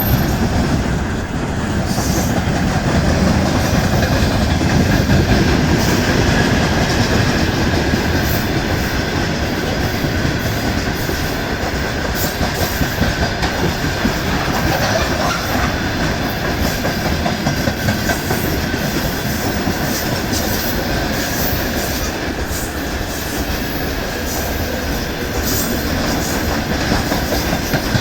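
Freight train wagons rolling past at steady speed, a continuous loud rumble with the clatter of wheels over the rail joints.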